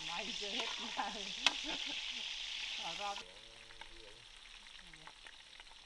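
Pork ribs sizzling in hot oil in a pan, a steady crackling hiss that cuts off suddenly about three seconds in.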